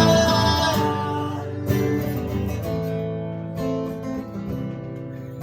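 Live acoustic guitar playing an instrumental passage between sung lines, with held strummed chords; fresh strums come in about a second and a half in and again past halfway, and the playing thins out and gets quieter toward the end.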